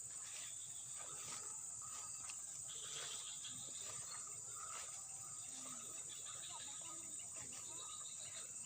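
Steady, high-pitched chorus of insects, crickets or cicadas, with scattered faint chirps over it.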